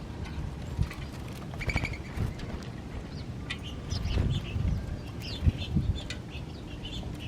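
Small birds chirping, with many short, high calls scattered through, over a low rumbling noise.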